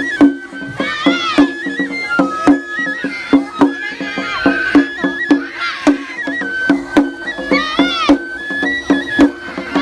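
Japanese lion-dance festival music: a high bamboo flute plays a stepping melody over regular drum strikes, about two a second. High rising-and-falling calls cut through every couple of seconds.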